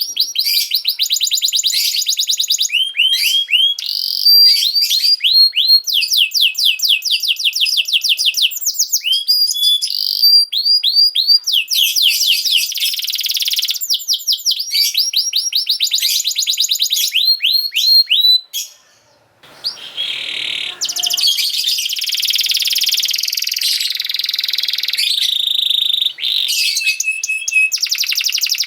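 Domestic canary singing long, rapid rolling trills of fast-repeated high notes, changing from one trill type to the next, with a brief pause about two-thirds of the way through.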